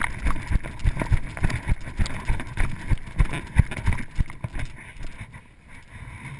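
Footsteps of a person moving quickly over the ground, about three heavy steps a second with gear rattling, as heard from a camera worn on the body, with wind on the microphone. The steps slow and fade near the end.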